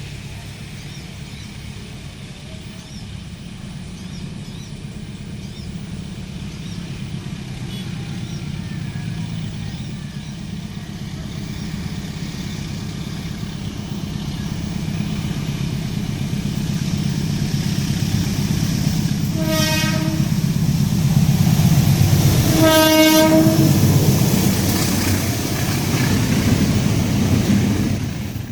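Inspection train KAIS 5 approaching, its engine rumble growing steadily louder as it nears. It sounds its horn twice, a short blast about two-thirds of the way in and a longer one a few seconds later, as it comes closest.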